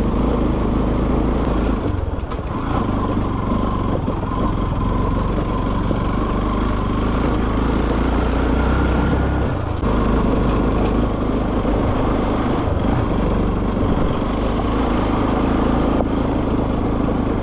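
Motorcycle running at road speed, with a steady dense rumble and road noise.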